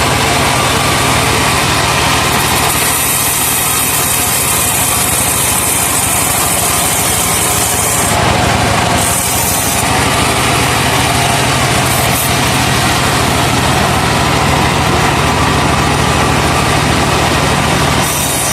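Truck-engine-powered sawmill cutting a laban log: the engine runs steadily under load beneath the saw's high hiss through the wood. The hiss drops away briefly about eight seconds in.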